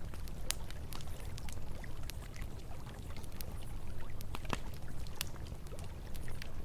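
Campfire crackling with irregular sharp pops over the steady low rush of flowing river water.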